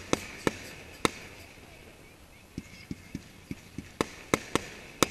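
Aerial fireworks shells going off: a loose string of sharp bangs, with a run of softer, duller thuds in the middle.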